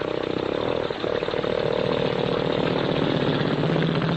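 Motorcycle engine running with a steady, rapid buzzing beat; its note shifts a little lower near the end.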